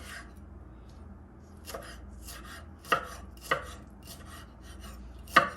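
Knife chopping chicken breast into small cubes: a string of sharp, irregularly spaced strikes, the loudest about three and five and a half seconds in.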